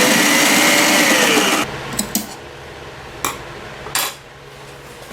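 A small electric motor runs loudly for about a second and a half, its pitch rising and then falling away, and stops. Several sharp clicks or knocks follow.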